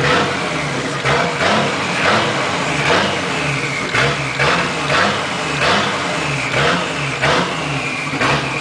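Toyota 7M-GTE turbocharged inline-six being blipped on the throttle over and over, a short rev about every half second, rising and falling back each time. It is being kept from stalling: it will not hold idle and wants to die as soon as the throttle is let go.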